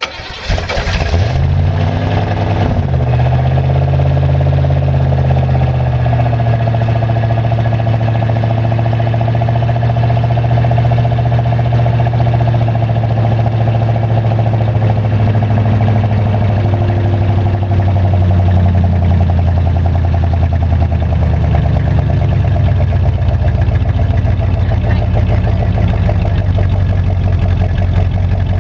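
Stock carbureted 305 V8 of a 1985 Chevrolet Monte Carlo SS cold-starting: it fires right away and settles into a steady idle within a couple of seconds. The electric choke is broken.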